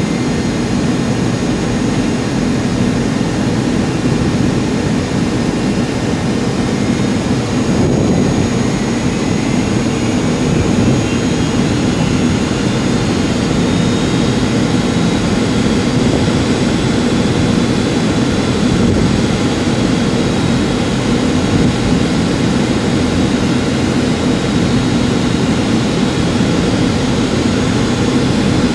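Boeing 757-200 jet engines and airflow heard inside the cabin as a steady drone. A faint whine rises in pitch about eight seconds in, then holds.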